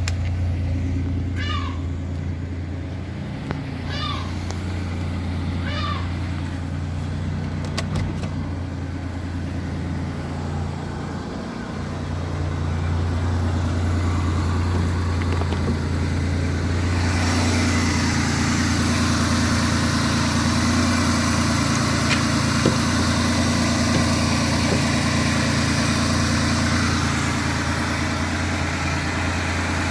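1995 Pontiac Trans Sport's 3.8-litre L27 V6 idling steadily after a cold start, following three and a half weeks standing. During the first six seconds a short high chirp comes about every two seconds, and about seventeen seconds in a louder, steady hiss joins the idle.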